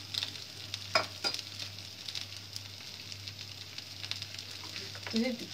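Semolina (suji) snack pieces sizzling steadily on a lightly greased flat iron tawa, with two sharper pops about a second in.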